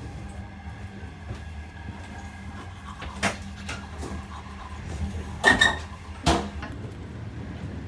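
Passenger train running, heard from inside the carriage: a steady low rumble with a few sharp knocks and clacks, the loudest a little past halfway.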